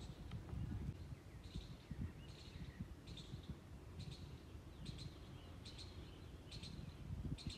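A bird chirping over and over, short high calls about once a second, over a low rumble.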